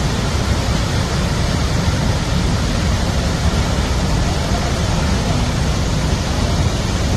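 Athirappilly Falls rushing: a loud, steady, dense noise of falling water, heaviest in the low end.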